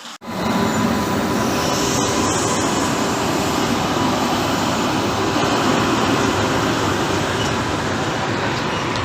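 A train running: a loud, steady rumble and rush of wheels on track. It cuts in suddenly just after the start and holds steady.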